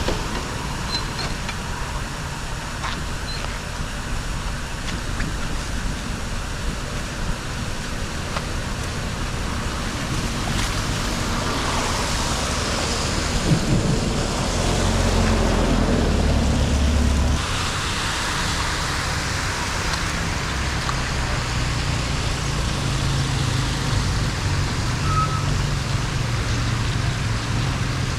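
Steady rush of flood water draining through a street drain, with a deeper rumble for a few seconds about halfway through.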